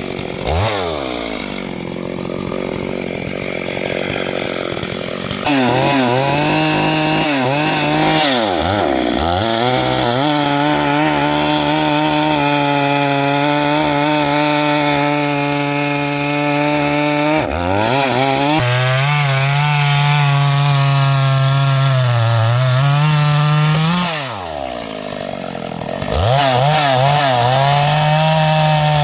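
Chainsaw running at high revs, cutting through wood. It drops back and revs up again several times, holds steady under load for long stretches, and eases off briefly near the end.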